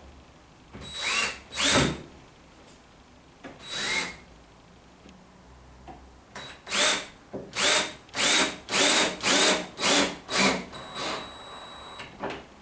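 Drill with a crosshead bit driving wood screws into wooden arris rail in short trigger bursts, each spinning up in pitch. There are two bursts about a second in, one near four seconds, then a quick run of about eight bursts.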